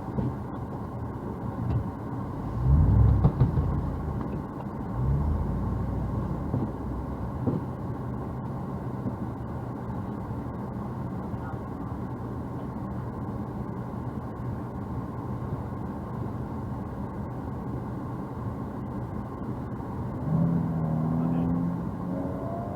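Vehicle engine idling steadily in the snow, with a couple of louder low surges a few seconds in and a brief rise in engine pitch near the end.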